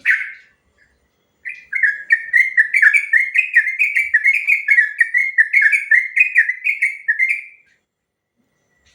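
Yellow-vented bulbul (trucukan) singing: one short note, then about six seconds of long, rapid song, a string of quick repeated notes without a break.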